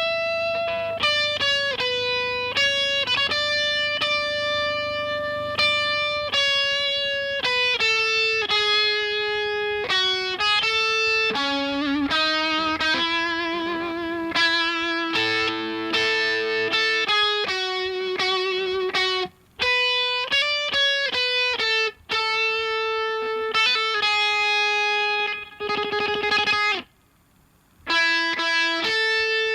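Electric guitar music playing a slow melody of single sustained notes with vibrato, briefly dropping out near the end.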